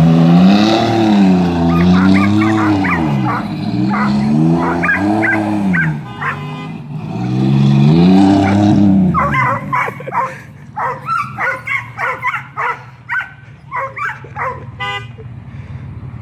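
Chevy V6 engine revving up and down in repeated waves, about every two seconds, as the vehicle spins donuts, while a dog barks repeatedly. About nine seconds in, the engine fades away and the dog's quick barking carries on.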